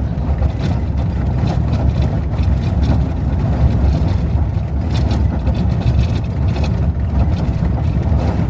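Car driving on a gravel road: a steady low rumble of engine and tyres, with scattered sharp clicks of gravel.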